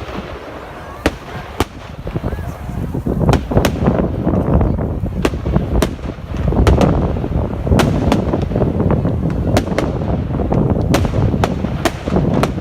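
Fireworks going off: an irregular string of sharp bangs and cracks over a low rumble, growing louder about three seconds in.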